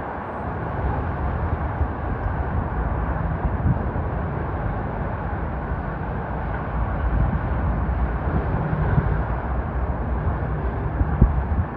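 Freight train's diesel locomotives running in a low, steady rumble with rolling noise, as the train crosses the bridge.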